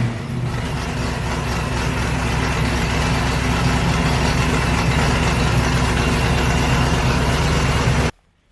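A vehicle engine running steadily at idle. It cuts off abruptly near the end.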